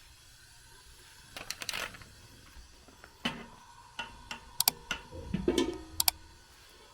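Irregular light clicks and knocks of objects being handled, starting about a second and a half in, a few of them with a brief ring near the end.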